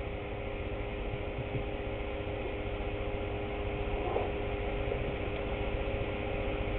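Steady mechanical hum with a few faint knocks, one about four seconds in.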